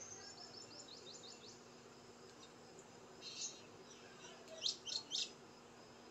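Small birds chirping: a quick run of short, falling chirps in the first second and a half, a brief burst midway, then three loud chirps near the end, over a faint steady hum.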